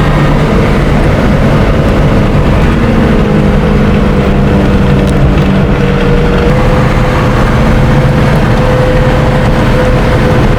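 Car engine and road noise heard while driving, loud and steady, with an engine hum that steps up a little in pitch about six seconds in.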